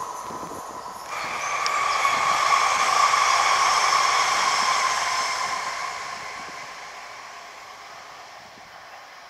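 CrossCountry Voyager diesel train passing: the sound starts abruptly about a second in, swells to its loudest around three seconds in with a rush and a steady high whine, then fades away as the train recedes.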